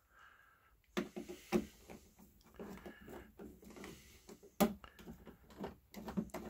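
Clicks, knocks and light rattling of oven door hinge parts being handled and fitted by hand. The sharpest knock comes about a second in, with another just after and a loud one past the middle.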